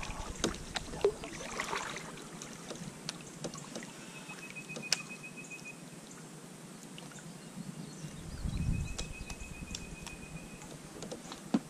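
Light knocks and clicks on a kayak, with faint water sounds around the hull. Twice a thin, high, evenly pulsed trill lasts about two seconds.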